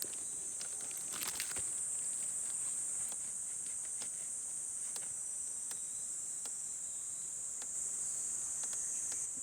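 Steady, high-pitched chorus of night insects, with scattered faint clicks over it.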